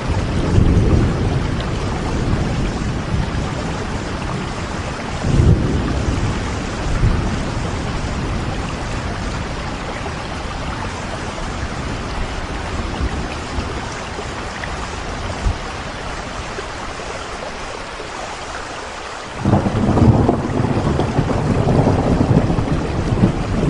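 Steady rain with rolling thunder: low rumbles at the start and again about five seconds in die away, then a new rumble breaks in suddenly about twenty seconds in.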